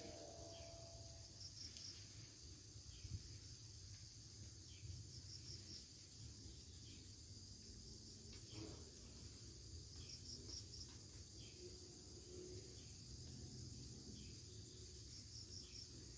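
Faint, steady high-pitched trilling of insects, with short pulsed chirps repeating every few seconds, over a low rumble.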